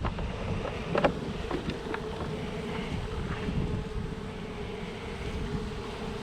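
Honeybees buzzing in a steady hum around an opened hive, with wind buffeting the microphone and a short knock about a second in.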